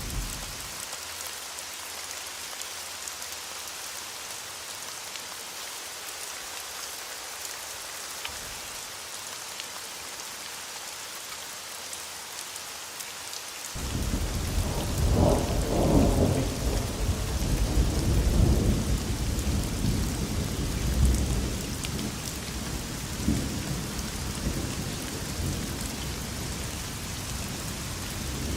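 Steady rain falling, a constant hiss. About halfway through, thunder rolls in suddenly as a loud low rumble. It swells over the next several seconds, then eases to a softer rumble under the rain.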